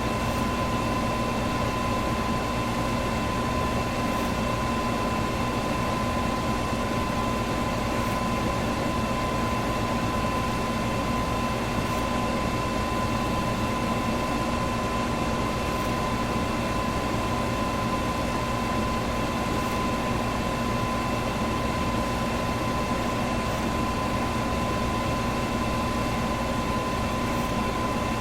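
Electric fan running steadily: an even whooshing rush of air with a constant motor hum and a whine in it, plus a faint tick about every four seconds.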